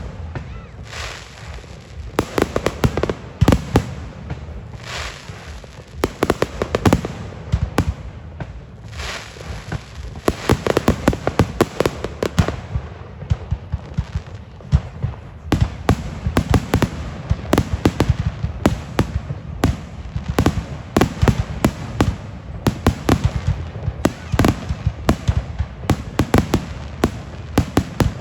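Aerial fireworks going off continuously: a dense run of sharp bangs and crackling bursts, some in rapid clusters, with the rumble of shells echoing between them.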